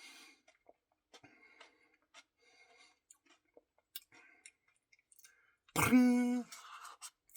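Faint scattered mouth clicks and smacks of eating, then about six seconds in a short, loud vocal sound held on one pitch, followed by a softer breathy noise.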